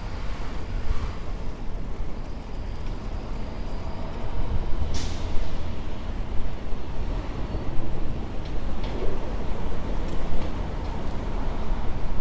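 Wind rumbling on the microphone of a bike-mounted camera while riding through city traffic. A short, sharp hiss about five seconds in stands out above it.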